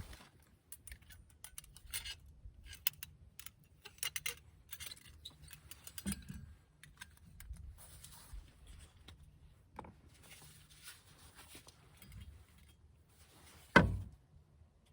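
Camp gear being handled: scattered small clicks, clinks and rattles of metal and hard objects, with one loud knock near the end.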